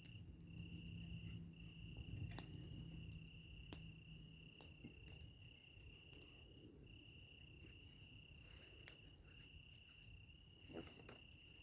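Faint, steady high-pitched trill of a cricket, breaking off briefly now and then, with scattered faint clicks and crackles from a campfire.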